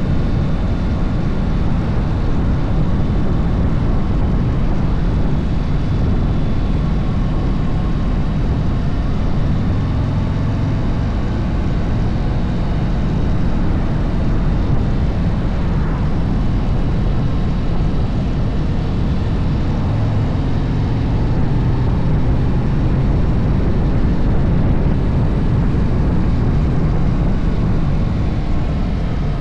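Harley-Davidson motorcycle running steadily while riding downhill, a continuous low rumble of engine and rushing air, with a faint engine note drifting up and down.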